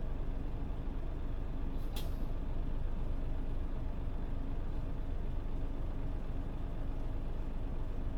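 Mitsubishi Fuso Aero Star city bus (PJ-MP35JM) running on the road: a steady diesel engine drone with road noise, and a brief high click about two seconds in.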